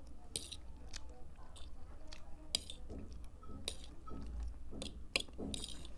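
A person chewing a mouthful of thick noodles, with short, irregular mouth noises.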